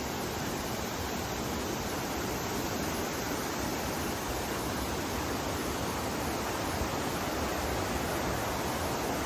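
Mountain river water rushing steadily, an even, unbroken noise.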